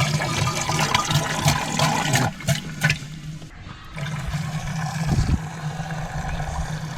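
Liquid splashing and trickling, heaviest in the first three seconds and softer after, over a steady low hum that drops out briefly about three seconds in.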